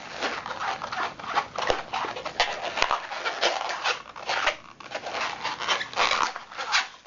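White latex modelling balloon squeaking and rubbing as it is twisted by hand into small bubbles and pinch twists, a rapid, irregular run of short squeaks.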